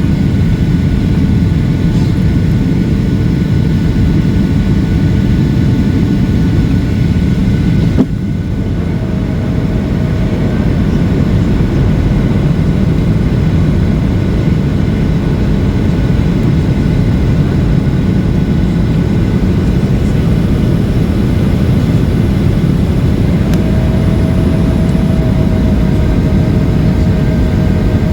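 Boeing 737-800 cabin noise on the descent: a steady low rumble of engines and airflow. A sharp click comes about eight seconds in, after which the sound drops slightly, and a faint steady whine joins near the end.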